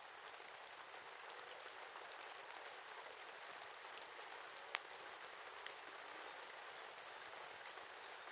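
Wood fire burning: a steady hiss with irregular sharp crackles and pops, one louder pop about five seconds in.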